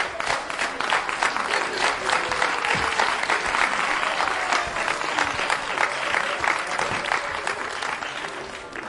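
Audience applauding, dense clapping that fades out near the end.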